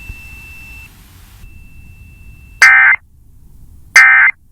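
Emergency Alert System end-of-message tones: short, loud, warbling digital data bursts, two of them about a second and a half apart, marking the end of the severe thunderstorm warning broadcast.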